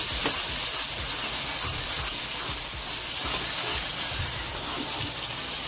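Chopped onion, tomato and green chilli sizzling steadily in hot oil in a non-stick pot, with a spoon scraping softly as it stirs. The tomatoes have just gone in and are being dry-fried without water.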